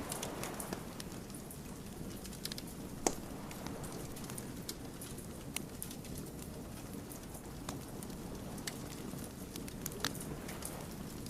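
Wood fire crackling: a steady low rush of burning with frequent sharp, irregular pops and snaps from the burning logs, one louder pop about three seconds in.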